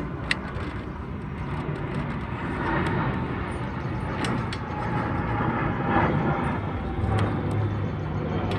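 A motor vehicle running or passing, heard as a steady rumble with a low hum that grows louder near the end, with a few light clicks over it.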